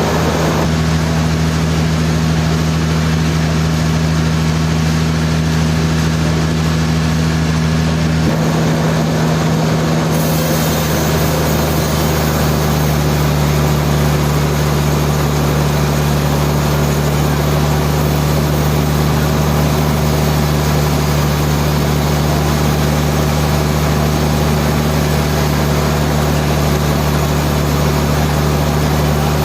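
Sawmill machinery running with a steady low hum. About a third of the way in the sound changes and a brighter hiss fills in above the hum.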